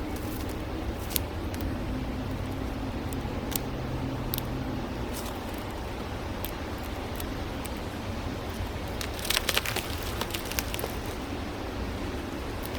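Steady outdoor background of road traffic, with a vehicle's low engine hum that fades out about five seconds in. Scattered sharp clicks run through it, with a quick cluster of clicks about nine seconds in.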